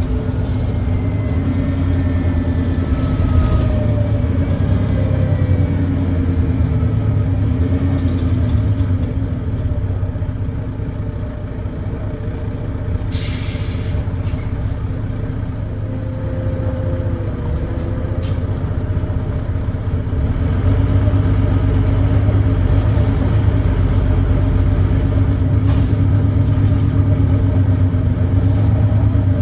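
Volvo D9B diesel engine of a Volvo B9TL double-decker bus running under way, heard from on board, with an exhaust leak that gives it a thrashy note. It eases off for a few seconds midway, then runs louder again from about two-thirds through. About halfway through there is a short hiss of compressed air, about a second long.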